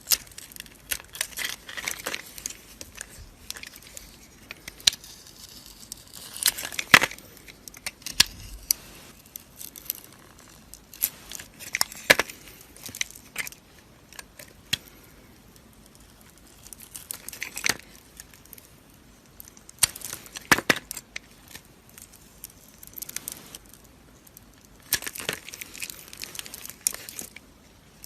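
A knife cutting and scraping dry soap: crisp crackling scrapes in short runs, with sharp clicks between them.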